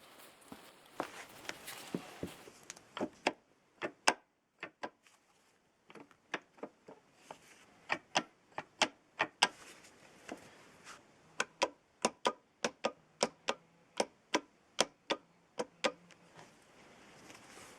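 A run of sharp, separate taps or knocks, about three a second, with a short pause about four seconds in.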